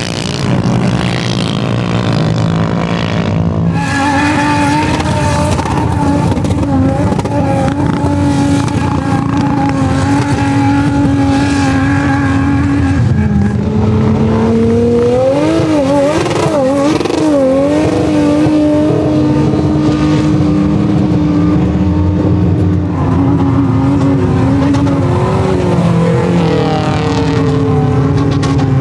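Off-road 4x4 engines working hard under load, as on a sand-dune climb. The revs jump up about four seconds in and are held high, then sag and waver up and down for a few seconds in the middle before settling again.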